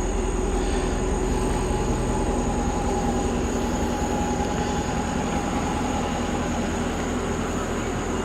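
Supercharged 6.4-litre 392 HEMI V8 with an Edelbrock E-Force Whipple supercharger and Corsa exhaust, idling steadily: a low exhaust rumble with a steady whine above it.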